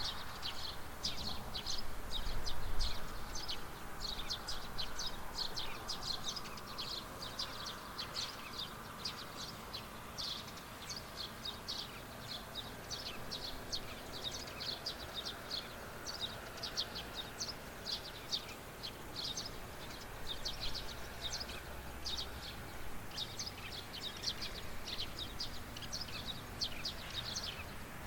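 Birds chirping steadily, many short rapid calls overlapping. In the first several seconds a low rumble, like distant traffic, fades away beneath them.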